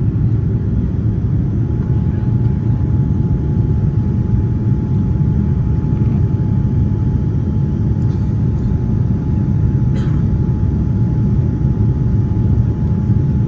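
Steady cabin noise inside a Boeing 787-9: a deep, even rumble of engines and airflow with a faint steady whine above it, and a couple of light clicks.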